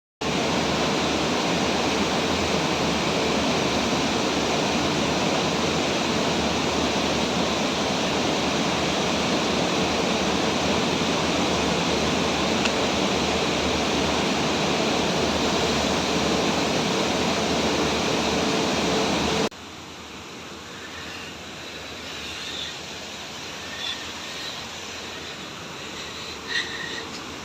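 Steady rushing roar of a large waterfall's falling water, cutting off abruptly about two-thirds of the way through. It is followed by a much quieter outdoor hush with a few faint short chirps near the end.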